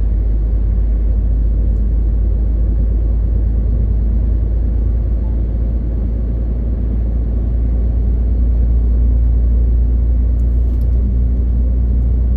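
MAN TGX 18.520 truck's inline-six diesel engine pulling steadily under way, with tyre and road noise: a continuous low drone that eases slightly about halfway and swells again a few seconds later.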